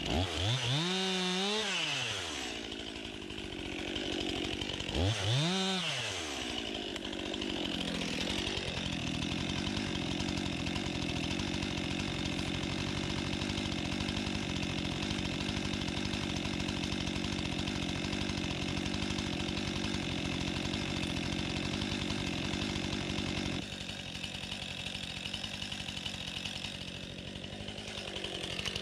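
STIHL MS261 two-stroke chainsaw, just started to check that it runs well: revved up and back down twice, then idling steadily. The idle gets a little quieter for the last few seconds.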